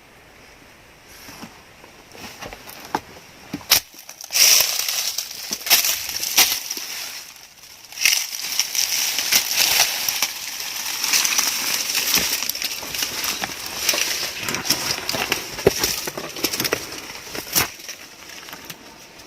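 Dense crunching and crackling with many sharp snaps, starting about a second in and fading near the end.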